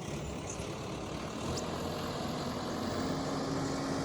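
A vehicle engine running steadily, a low even hum with a steady droning tone.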